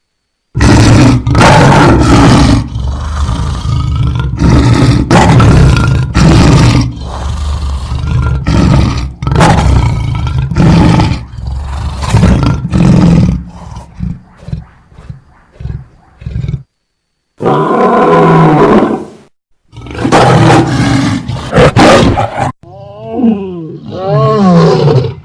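Lion roaring, a series of loud roars with short breaks between them, turning to lower, pitch-bending growls in the last few seconds.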